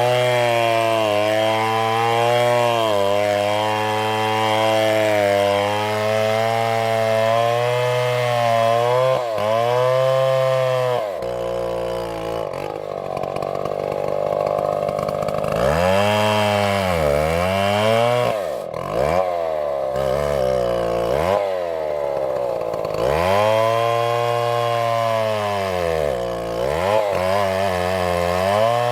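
Two-stroke chainsaw running at high revs and cutting wood, its pitch sagging under load and climbing back again and again. Around the middle it runs lower and rougher for a few seconds.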